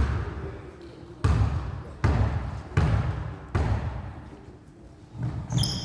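A basketball being dribbled on a gym floor: five bounces in a steady rhythm about three-quarters of a second apart, each ringing out in the hall, stopping about two-thirds of the way through.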